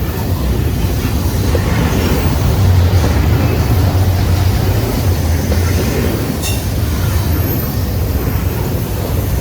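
Freight train cars rolling past close by, a loud steady rumble of wheels on rail, with a brief high squeak about six and a half seconds in.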